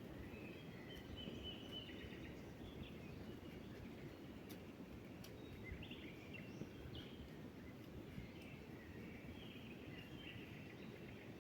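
Faint wild birds chirping and calling on and off over a steady low background rumble.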